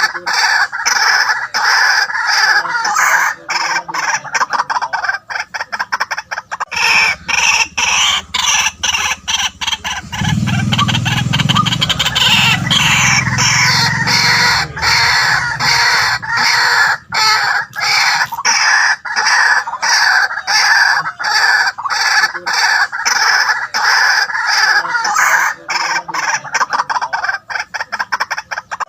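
White-breasted waterhen calling, a rapid, unbroken run of harsh repeated notes. A lower droning sound sits under the calls for several seconds midway.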